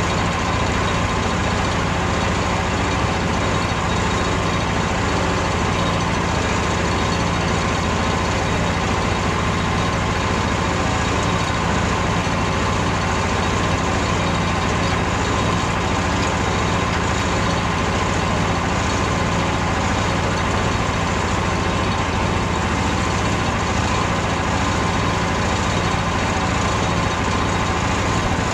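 The engine of a Frontier OS27 portable bandsaw mill running steadily while milling larch logs, at an even, unbroken level.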